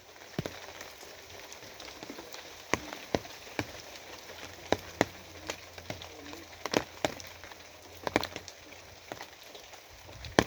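Rain falling, a steady hiss with heavy drops striking a hard surface in irregular sharp taps, about two a second.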